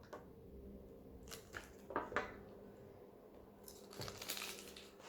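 Faint handling of toy packaging: a few small plastic clicks, then a short stretch of crinkling about four seconds in.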